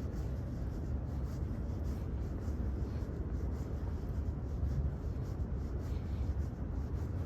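Steady low rumble of the night city, with faint scuffing footsteps at a walking pace, about two a second.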